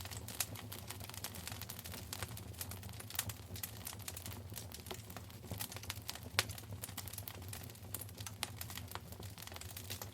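Wood fire crackling in a fireplace: a steady run of small irregular snaps with a few sharper pops, the loudest about six seconds in, over a low steady hum.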